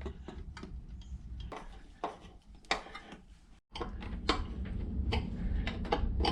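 Irregular light clicks and taps of hand work as long screws are put in to fasten Wiremold parts to the wall. The sound cuts out completely for a moment a little past halfway.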